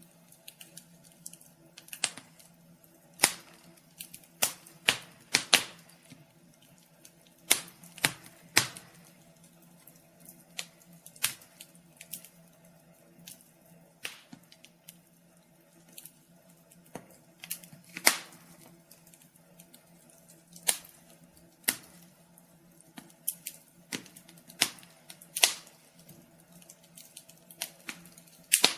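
Wood fire crackling: irregular sharp pops and snaps, a few every couple of seconds, some much louder than the rest, over a faint steady hum.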